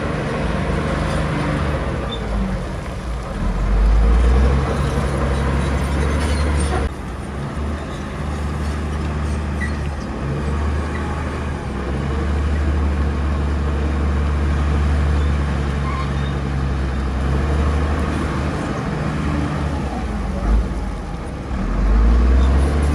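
Heavy bulldozer diesel engine working, its low steady drone getting louder as the load comes on about four seconds in and again near the end.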